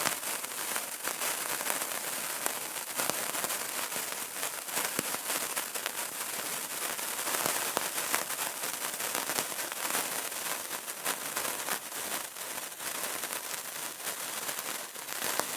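Candle flame crackling: a dense, steady stream of small sharp crackles and pops over a soft hiss.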